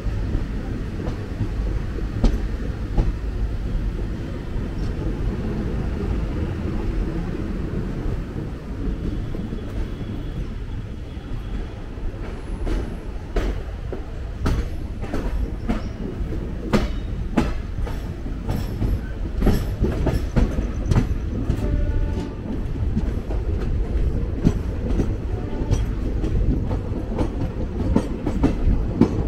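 Moving passenger train heard from aboard a coach: a steady low rumble with the wheels clicking and clacking over rail joints. The clacks come thicker and sharper from about halfway through.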